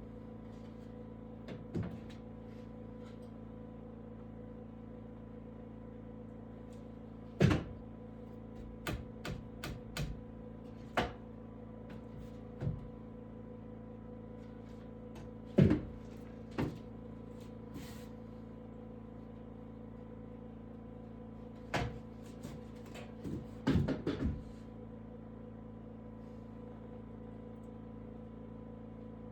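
About a dozen irregular knocks and clunks, some in quick clusters, over a steady low hum. The loudest come about a quarter of the way in and about halfway through, and they stop for the last few seconds.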